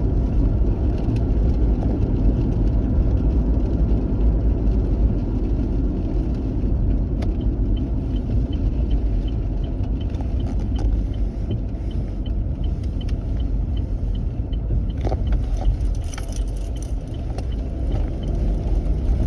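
Steady low rumble of a car moving on the road, heard from inside the cabin. For a few seconds about eight seconds in, a regular light ticking runs over it, about two ticks a second.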